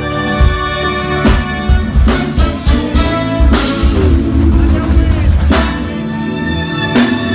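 A live band playing, a drum kit keeping the beat under sustained horn and instrument notes.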